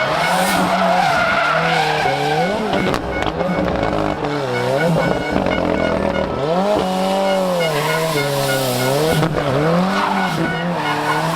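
Rally car engine revving hard, its pitch dropping and climbing again several times as the driver works the throttle, with tyres squealing and skidding.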